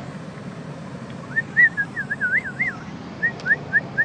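A person whistling: starting a little over a second in, a thin whistled tone that wavers up and down a few times, then a run of short rising whistle notes, about four a second.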